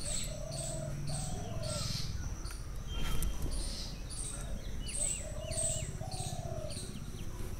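Birds chirping over and over, with lower cooing notes coming in two pairs. A short clink about three seconds in.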